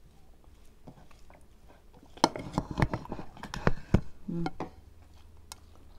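Close-miked eating sounds: chewing and wet mouth smacks while eating chicken, in a cluster of sharp clicks between about two and four seconds in, followed by a brief hum of a voice.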